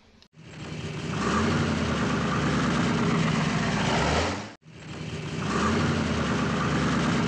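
Car engine sound effect: an engine builds up over about a second, runs steadily, then cuts off. The same clip plays twice in a row.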